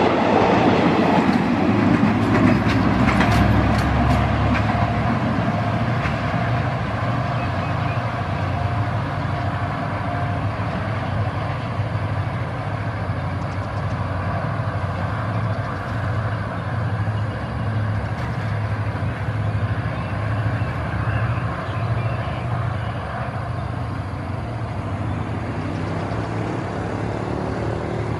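Passenger train coaches running past close by, wheels clicking over the rail joints, fading within the first few seconds. After that, the steady low pulsing drone of a diesel locomotive engine approaching from a distance.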